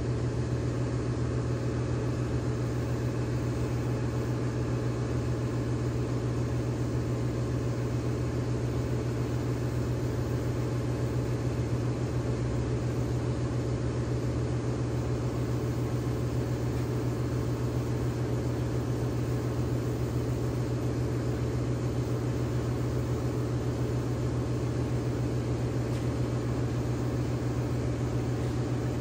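Steady machine hum with a strong low drone, running evenly without change.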